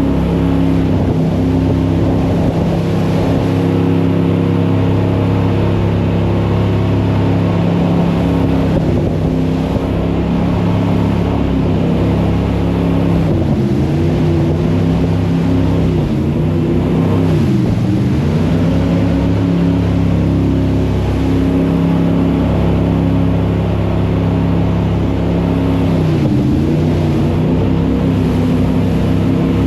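Jet boat engine running hard under a rush of wind and water. Its pitch dips and climbs back three times, when the revs drop and rise again.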